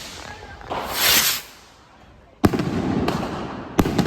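Trueno salute rockets: one rocket whooshes up about a second in, then a sharp, loud bang echoes out a couple of seconds later, followed by a smaller crack and another bang near the end.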